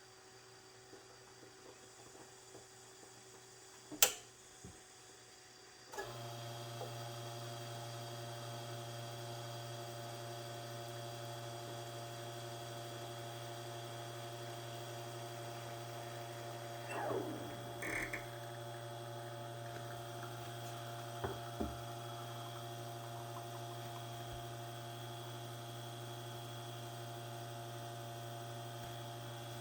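La Spaziale Vivaldi II espresso machine's pump humming steadily as a shot is pulled, switching on about six seconds in after a sharp click. A few light knocks come near the middle.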